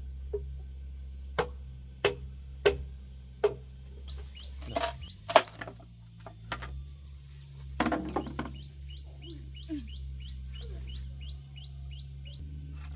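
Sharp knocks, about one every 0.7 s at first and then a few louder irregular ones, like strikes on wood. In the second half a small animal, a bird or insect, gives an even run of short high chirps, about three a second.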